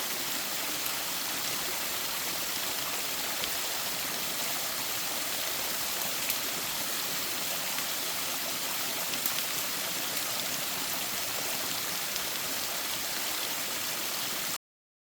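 Mountain stream flowing: a steady rush of running water with a few faint splashy ticks, cutting off suddenly to silence near the end.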